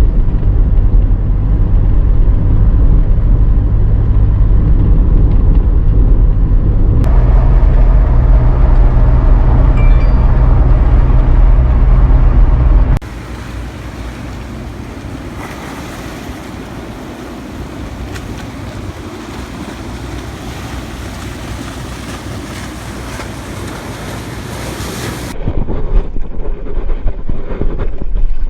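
Wind buffeting an action camera's microphone as a heavy low rumble. In the middle stretch it gives way to a quieter, even hiss of surf and wind, and the rumble comes back near the end.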